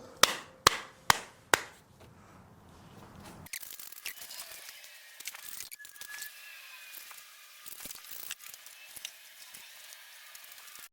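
Four sharp clicks about half a second apart, then faint scattered ticks and handling noise.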